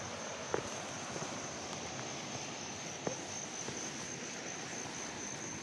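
Outdoor ambience dominated by a steady, high-pitched drone of insects, over an even background hiss, with a couple of faint clicks.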